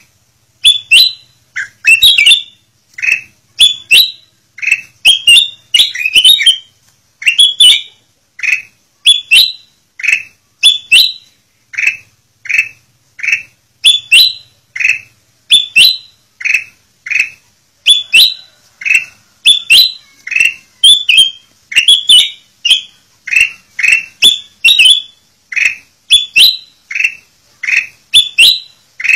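Kutilang emas bulbul calling over and over: short, sharp, rising chirps, about one or two a second, some in quick pairs.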